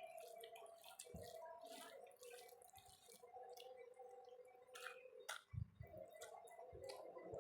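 Faint wet eating sounds: chewing and soft mouth smacks and clicks from eating rice with dal, scattered through, over a faint steady hum.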